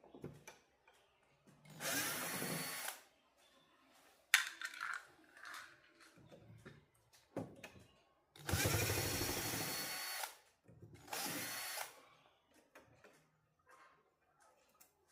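Small power driver running in three bursts, the middle one the longest at nearly two seconds, with light clicks and knocks between the bursts.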